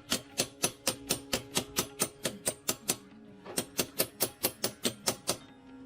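Sharp clicks at an even pace, about four or five a second, in two runs with a short break about three seconds in, over a faint steady hum.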